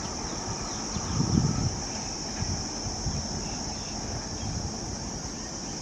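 Trackside ambience: a steady high-pitched chirring of insects over a low rumble, with gusts of wind buffeting the microphone about a second in.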